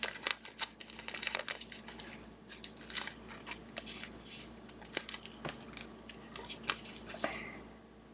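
Trading cards and their plastic and foil packaging being handled: irregular crinkling and rustling with many small sharp clicks and taps.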